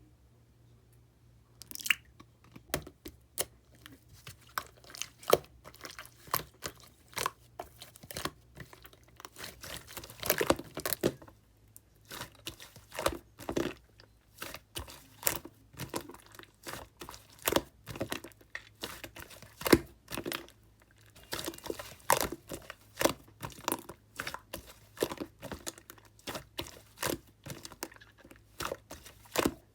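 Pink slime being squished and poked by hand, making irregular sticky crackling pops and clicks, several a second, that begin about two seconds in.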